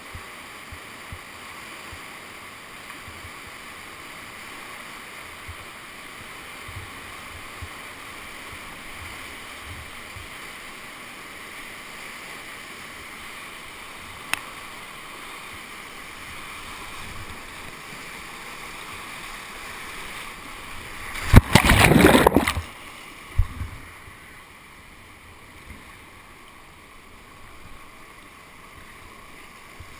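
Whitewater rushing steadily around a kayak, with a loud burst of splashing about two thirds of the way through.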